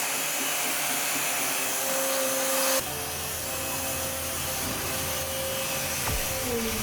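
Steady machine whirring with a high hiss and a faint steady whine. The sound changes abruptly about three seconds in.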